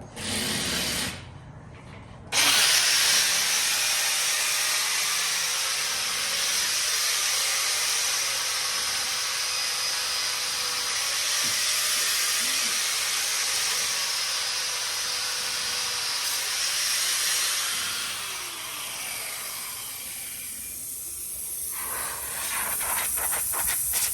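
Pressurised air rushing out of a truck tire in a loud, steady hiss. It starts suddenly about two seconds in and weakens after about eighteen seconds. A fast clicking starts near the end.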